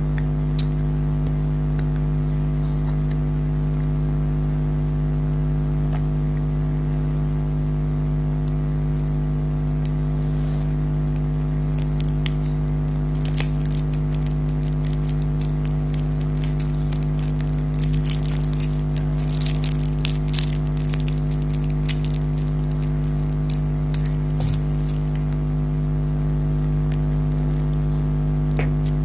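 A steady low electrical hum throughout. From about twelve seconds in, a long run of close-miked crackling and clicking comes in over it, from handling and eating jelly candy, thinning out after about twenty-five seconds.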